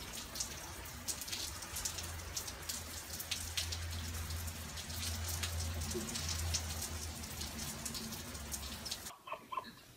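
Steady rain pattering, many small drop ticks over a hiss, with a low rumble underneath; it cuts off abruptly about nine seconds in.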